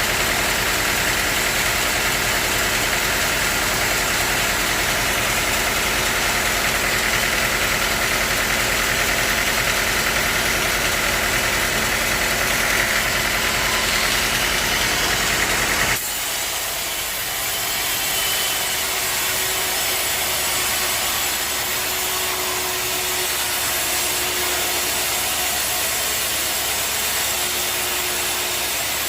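Sawmill machinery running steadily. About halfway through, the sound cuts abruptly to a lighter machine noise with less low rumble and a faint on-and-off tone.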